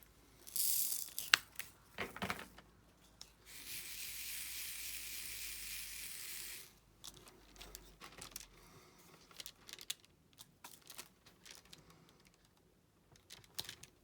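Plastic protective film being peeled back off a sticky diamond-painting canvas, giving a steady rustling tear for about three seconds. Around it come a brief rustle, a sharp click and scattered light taps of a drill pen setting resin drills onto the canvas.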